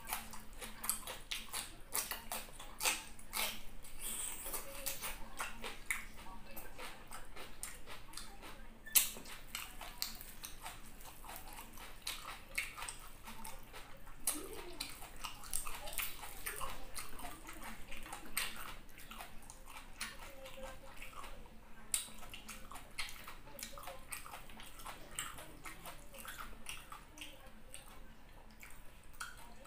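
Close-up mouth sounds of a person eating fried tilapia and rice by hand: chewing, lip smacks and many short, irregular wet clicks, with one sharper click about nine seconds in.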